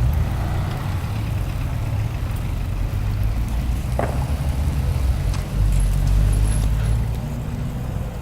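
Blizzard wind buffeting the microphone: a steady, uneven low rumble that swells in a gust partway through, with a short click about 4 seconds in.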